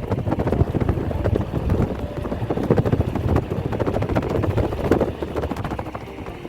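Airliner rolling on the ground, heard from inside the cabin: a loud, steady rumble with dense, irregular rattling and knocks.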